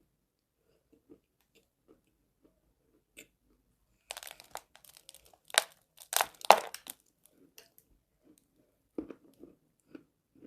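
Close-miked biting and chewing of a piece of chalk. Near-silence with faint clicks gives way to a run of sharp, loud crunches in the middle, followed by softer chewing clicks near the end.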